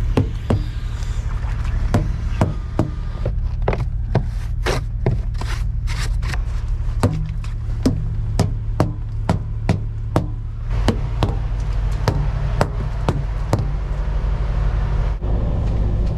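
Semi-truck engine running with a steady low drone, with a string of sharp clicks and knocks over it that come fastest in the middle.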